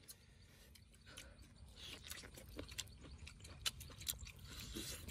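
A person chewing and biting grilled pig's head meat: faint, irregular clicking mouth sounds that grow slowly louder.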